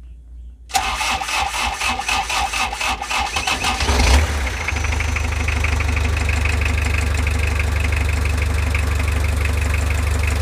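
Mazda Bongo's R2 diesel engine started from cold: the starter cranks it for about three seconds, it catches about four seconds in, and it settles into a steady idle.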